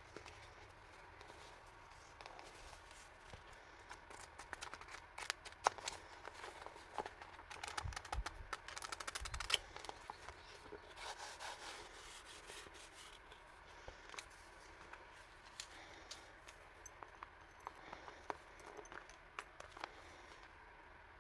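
Hands unpacking and handling stationery purchases: scattered small clicks and taps, with a busier stretch of rustling packaging and a couple of soft thumps about eight to ten seconds in.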